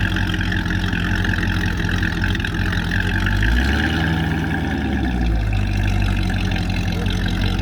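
A car engine running steadily while driving, with road and wind noise. About halfway through, the engine note dips lower for a couple of seconds, then comes back up.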